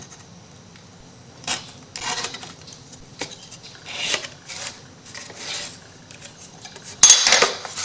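A knife blade cutting and scraping along paper in a string of short, irregular rasps, with a louder rasp near the end.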